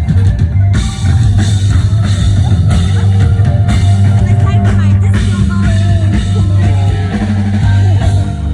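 A live rock band jamming loud: a drum kit with washing cymbals over a heavy held bass and sustained chords.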